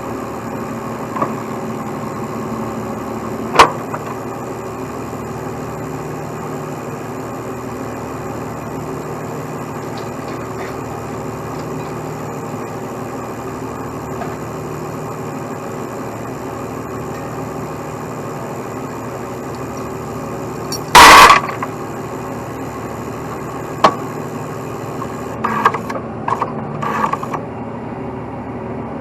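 Truck engine idling steadily. A sharp knock comes about three and a half seconds in, a loud half-second bang around twenty-one seconds, and a run of short knocks near the end.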